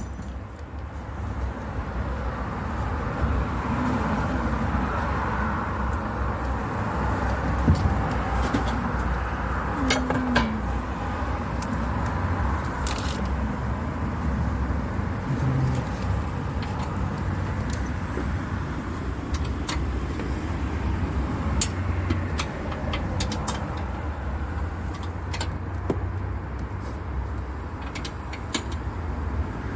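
Steady low motor-vehicle rumble with scattered sharp clicks and knocks throughout.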